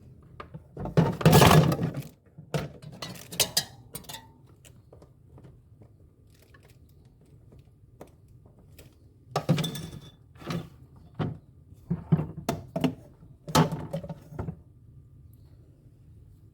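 Hard objects clattering and knocking in short bursts, a loud clatter about a second in and a longer run of knocks and clinks later on, as tools and parts are handled while a refrigerator is taken apart.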